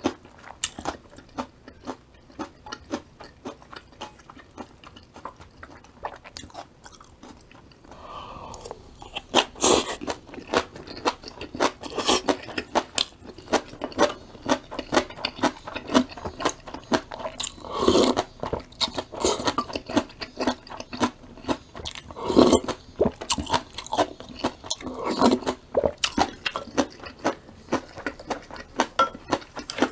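A person chewing crunchy vegetables: soft, regular chews at first, then louder, denser crunching from about ten seconds in.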